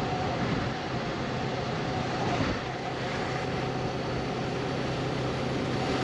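Honda CB500X motorcycle on the move: its engine running at a steady speed under a constant rush of wind and road noise.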